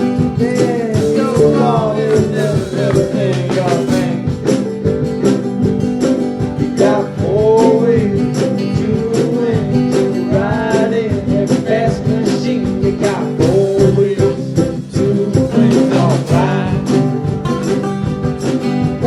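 A rock song's instrumental break with a lead guitar playing bending melodic lines over a band with a steady beat.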